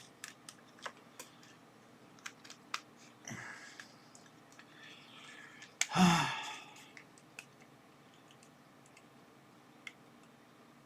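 Light scattered clicks and plastic handling noises from a small digital probe thermometer and its packaging being handled, with one louder brief burst of handling noise about six seconds in.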